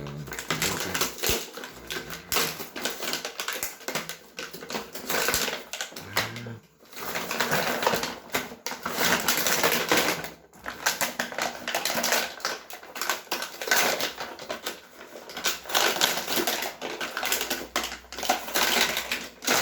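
Plastic packaging crinkling and rustling as small toy boats are unwrapped by hand: a dense crackle in long stretches with a few short pauses.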